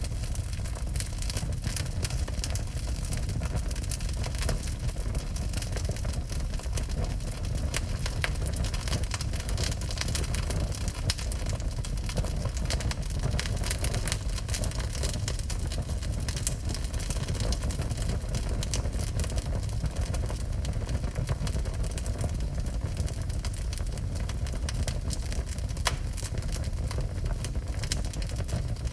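Wood fire burning in a fireplace: many quick, irregular crackles and pops over a steady low rumble of the flames.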